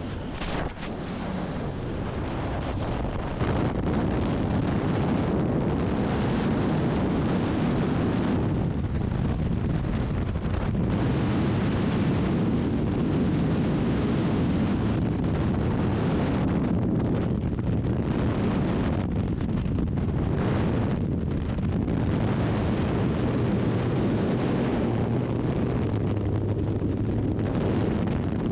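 Loud, steady wind rushing over the microphone, as on a skydiver's camera in freefall. It grows louder about three and a half seconds in and then holds, gusting slightly.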